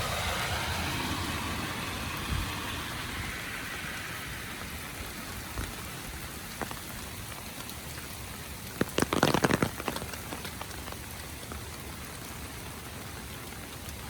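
Steady rain falling on the street, with a brief cluster of loud, sharp taps about nine seconds in.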